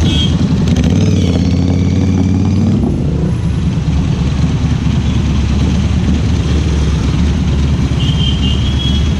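Ducati Scrambler Cafe Racer's air-cooled 803 cc L-twin engine and exhaust running under way, the engine note shifting about three seconds in and then holding steady.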